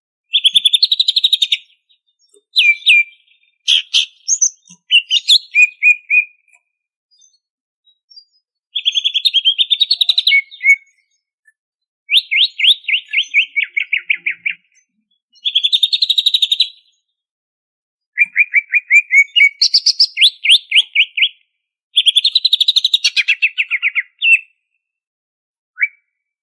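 Greater green leafbird (cucak ijo) singing: phrases of fast repeated notes, each a second or two long, with short pauses between them.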